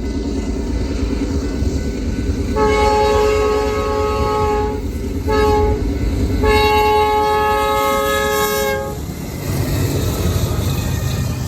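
Locomotive air horn sounding a chord three times, a long blast, a short one and another long one, over the steady rumble of a train.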